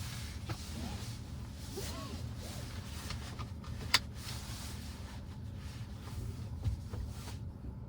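Low, steady rumble of the Volvo XC60 T8 as heard inside its cabin, with a single sharp click about halfway through.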